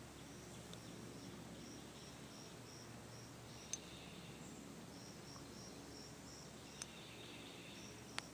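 Quiet river-side outdoors with a small creature's high chirp repeated evenly about three times a second, in two runs with a pause between them. A few single sharp clicks stand out, the loudest near the end.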